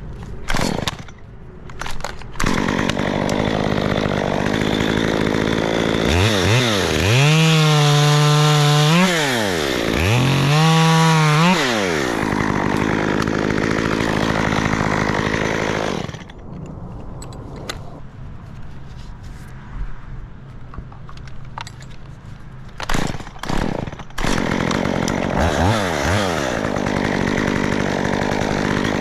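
Chainsaw engine revving hard to full throttle twice, about six and ten seconds in, dropping back after each. It then runs at a lower, steady idle broken by a few short blips of the throttle near the end.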